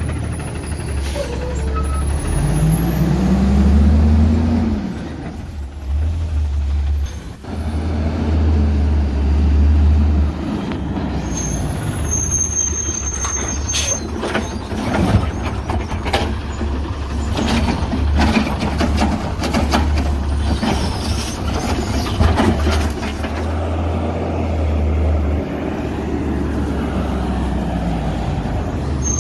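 Autocar ACX Xpeditor CNG garbage truck running, its engine revving up near the start as the Rapid Rail automated arm works, with an air-brake hiss and a run of clattering knocks in the middle as a recycling cart is lifted and shaken out into the hopper.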